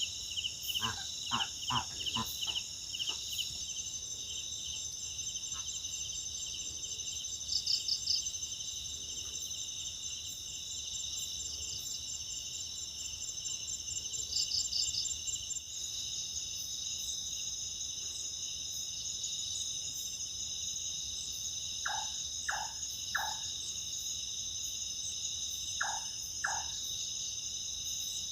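Night insect chorus, a steady high-pitched trilling of crickets and other insects. Over it a night bird gives short repeated call notes in small groups: a run of about five near the start, three about 22 seconds in, and two a few seconds later.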